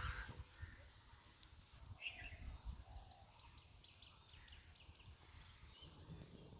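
Faint birds chirping in short, scattered calls over a low background rumble.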